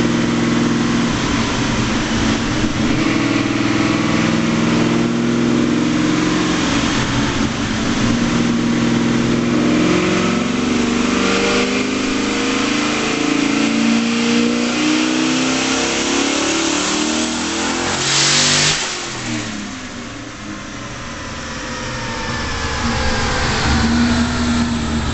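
Twin-turbo Ford Mustang Cobra's 4.6 L DOHC modular V8 pulling hard on a chassis dyno, its note climbing steadily in pitch. About eighteen seconds in there is a short loud rush of air as the throttle is let off. Falling whines follow as it winds down.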